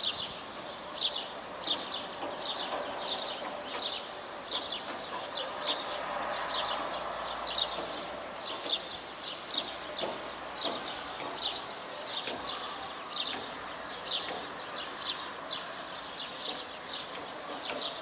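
A bird chirping over and over, short high chirps about two to three a second, over a steady background hum of outdoor ambience.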